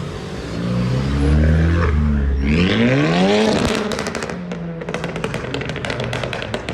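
A car engine revving: it swells, then climbs sharply in pitch over about a second. It is followed by a rapid, irregular run of sharp cracks and pops.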